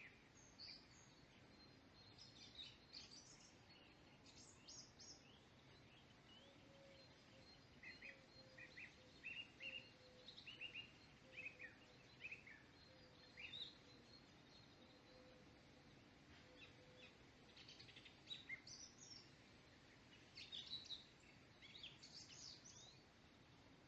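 Faint birdsong: many short, high chirps and trills over a low steady hiss.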